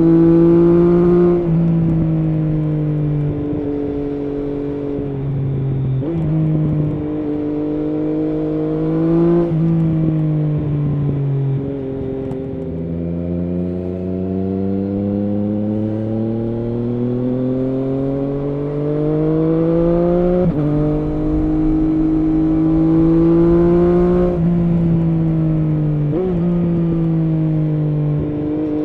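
Triumph Street Triple S inline three-cylinder engine through an SC Project SC1-R slip-on exhaust with its dB-killer fitted, heard while riding. The revs rise and fall with several sudden pitch jumps from gear changes, and there is one long steady climb in revs about halfway through.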